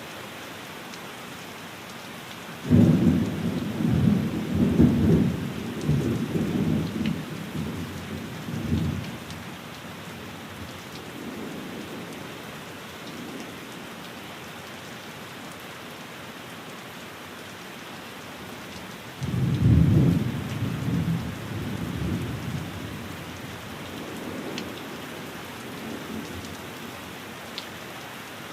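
Steady rain falling on a window, with two rolls of thunder: the first breaks about three seconds in and rumbles on for about six seconds, the second comes about twenty seconds in and is shorter.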